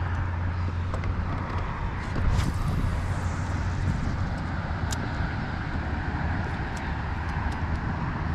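Steady rumble and hiss of road traffic from a nearby expressway, with a few faint clicks.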